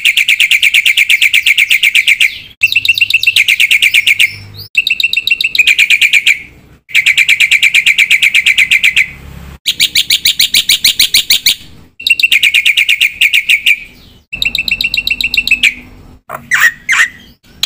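Black-winged myna (jalak putih) singing loudly in repeated bursts of rapid, buzzy trilled chatter, each lasting about two seconds with short breaks, followed by a few quick gliding whistled notes near the end.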